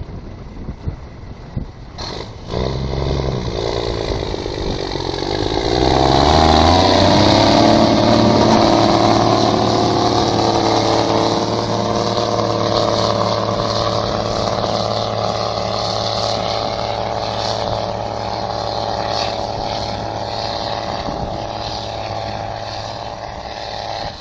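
Pulling tractor's engine running hard under load. It climbs in pitch in steps from about two seconds in and is loudest a few seconds later, then holds a steady, heavy note that slowly eases off toward the end.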